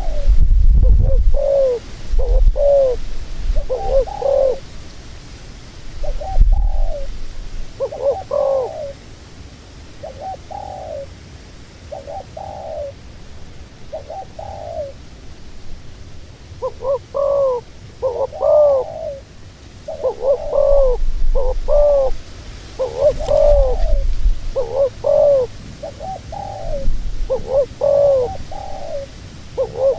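Doves cooing repeatedly, short curved coos coming in runs, sparse at first and closer together in the second half, with a few low thumps underneath.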